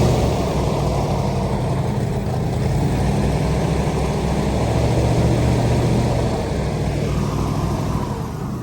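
A boat's engine running steadily at low speed with a low hum and hiss, easing off a little near the end.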